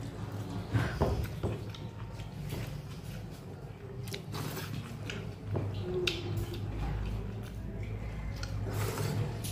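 Close-up eating sounds: wet chewing and smacking of the mouth, with short clicks, as the fingers scrape the last of the rice off a metal plate and bring it to the mouth. A steady low hum runs underneath.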